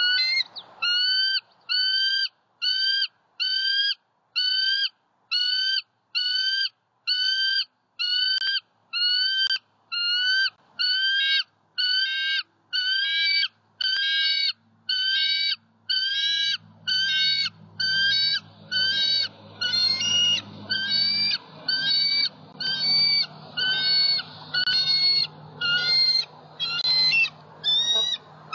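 A bird repeating one short call note over and over, very evenly, about three notes every two seconds, each note bending up at its end. A low rumble joins for several seconds past the middle.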